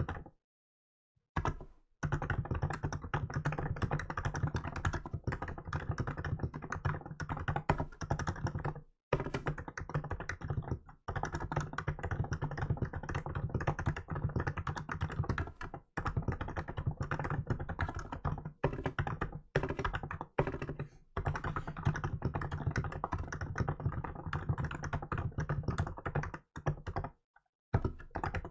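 Steady typing on a Hansung GK868B electrostatic capacitive keyboard with milk keycaps: rapid runs of keystrokes broken by short pauses every few seconds.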